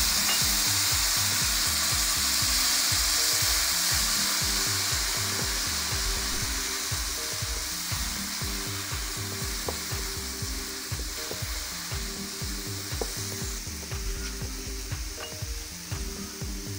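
Vermicelli frying in butter with a splash of milk, sizzling in a non-stick pan as a silicone spatula stirs it. The sizzle is strongest at first and gradually dies down as the milk cooks off.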